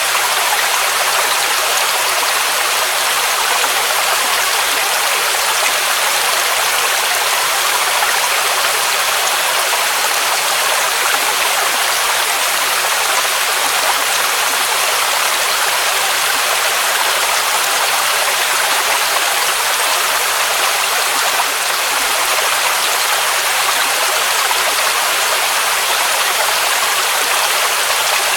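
Waterfall cascade: a steady, unbroken rush of falling water, an even hiss with little deep rumble.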